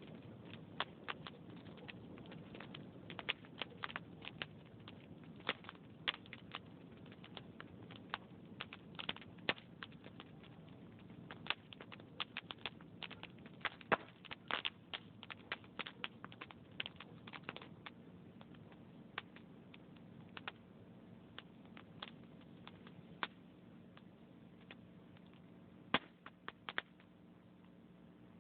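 Wood log fire crackling in a fireplace, with irregular sharp pops over a low steady hiss. The pops come thick and fast at first and thin out in the last third.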